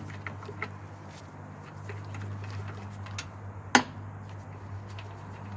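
A steady low hum with a few light ticks, and one sharp metallic clack about two-thirds of the way in, from hand tools handled on metal during an oil change.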